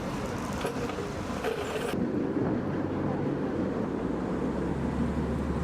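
Street traffic noise: a steady rush of passing vehicles, with a low engine hum growing stronger about four seconds in.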